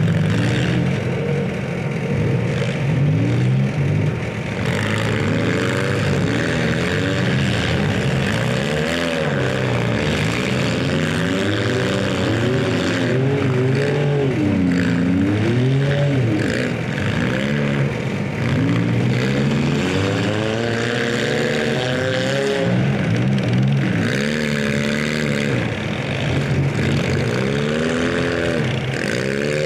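Several stock compact cars' engines revving and running at once in a demolition derby, their pitches rising and falling over one another as the drivers accelerate and back off.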